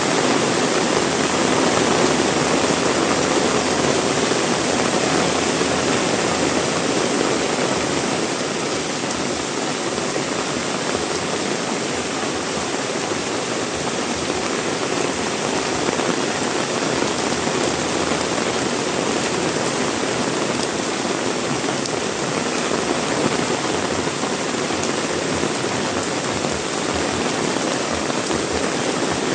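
Heavy rain pouring down steadily as a dense, even hiss, a little louder during the first several seconds before easing slightly.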